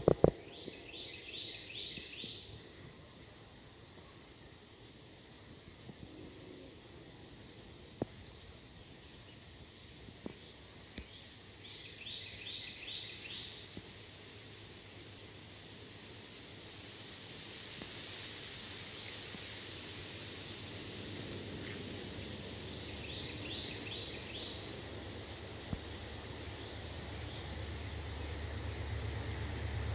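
Freight train rolling past behind trees, a low rumble that grows louder toward the end, with a regular run of faint clicks. A bird sings a short trilled phrase three times.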